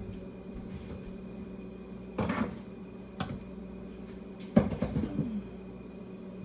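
Kitchen things being put away: a few knocks and clatters with a cupboard door shutting, the loudest knock about four and a half seconds in, over a steady low appliance hum.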